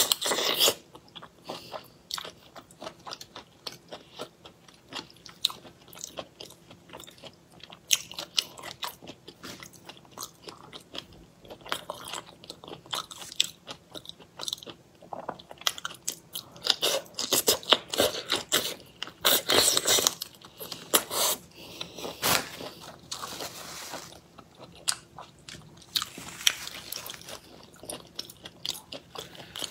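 Close-miked eating of shrimp in chili sauce: irregular crunching bites, chewing and wet clicks, with louder spells of crunching scattered through.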